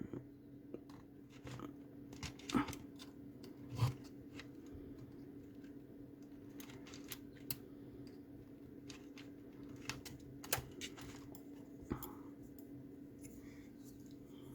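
Scattered small clicks and ticks of metal tweezers working the plastic locking tabs and wire crimps of a car fusebox connector, over a faint steady hum.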